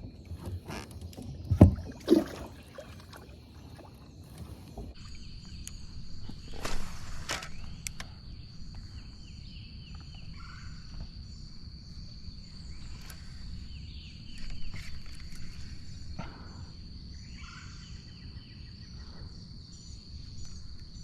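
Kayak on the water: a few sharp knocks against the hull in the first couple of seconds and another thump around a third of the way in, over steady low water and wind noise, with a thin steady high tone throughout.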